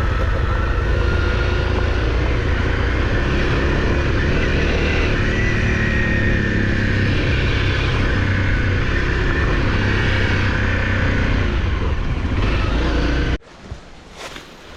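Honda CRF dirt bike engine running under way, its pitch drifting slowly up and down, with a heavy low rumble. The sound cuts off suddenly near the end.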